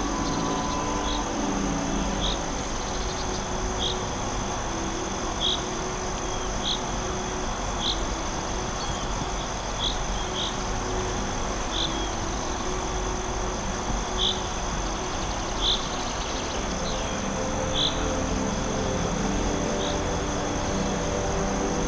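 Forest insect chorus: a steady high drone of insects with short chirps repeating about every second or two, over a steady low hush.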